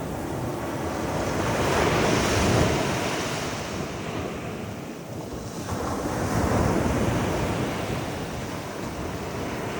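Ocean surf breaking and washing up the sand, swelling louder about two seconds in and again around six seconds, with wind on the microphone.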